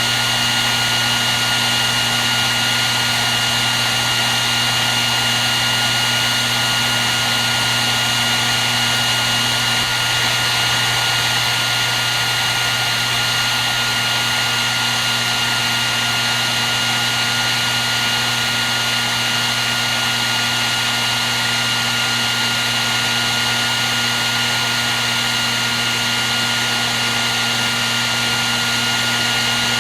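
Hair dryer running continuously: a steady rush of blown air with an unchanging motor whine.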